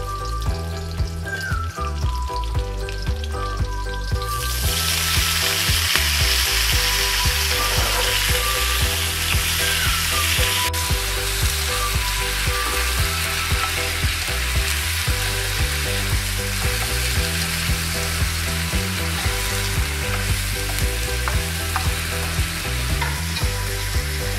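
Garlic and red chili sizzling in hot oil in a wok. About four seconds in, the sizzling jumps much louder as the bok choy goes in, and it then carries on steadily while the greens are stir-fried with a spatula.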